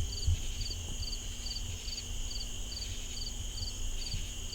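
Night insect chorus: a cricket chirping about twice a second, each chirp a quick run of pulses, over a steady high trill from other crickets.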